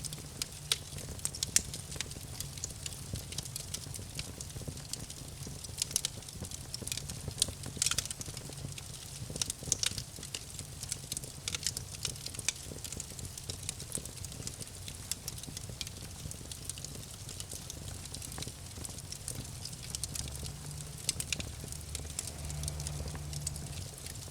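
Campfire crackling: irregular sharp pops and snaps of burning wood, some louder than others, over a low steady rumble.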